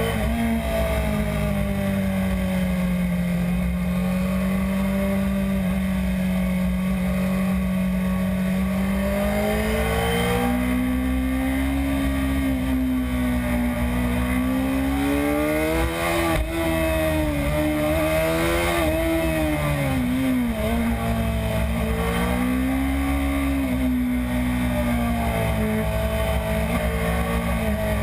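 Onboard sound of a BMW S1000RR's inline-four engine running at cruising speed under a steady rush of wind. The engine note holds steady at first, climbs about a third of the way in, then dips and recovers a couple of times as the throttle is rolled off and on through the bends.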